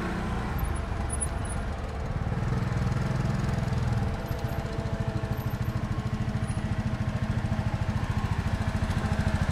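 A Patak Motors retro car's 450 cc quad-bike engine drives up, getting louder, and pulls to a stop about four seconds in. It then idles with a steady, even, rapid beat.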